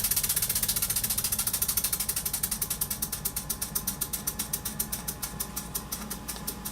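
Small model overtype steam engine running on steam, its exhaust beats ticking rhythmically. The beats slow down steadily and grow quieter.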